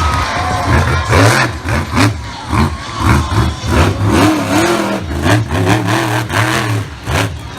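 Monster truck engine revving hard in quick repeated bursts, its pitch rising and falling with each blip of the throttle.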